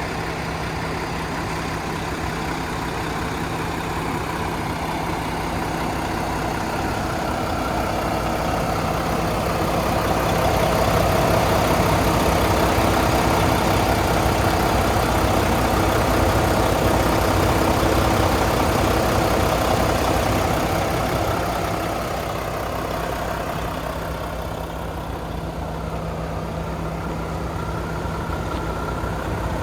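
Diesel engine of a 2012 Mack CHU613 winch truck idling steadily at an even pitch. It grows louder in the middle for about ten seconds, then eases back.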